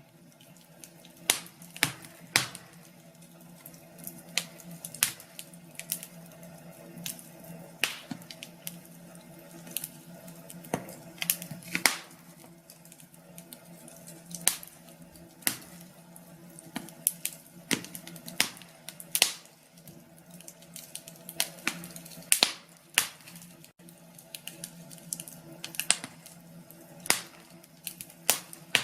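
Wood fire burning in a fireplace, crackling with irregular sharp pops about once a second, over a faint steady low hum.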